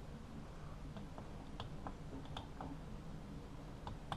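Scattered light clicks, about eight irregular taps, over a low steady hum.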